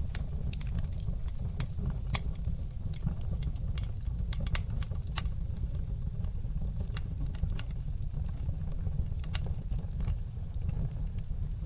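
Wood fire crackling in a fireplace: irregular sharp pops and snaps over a steady low rumble of the burning fire, with a few louder pops around the middle.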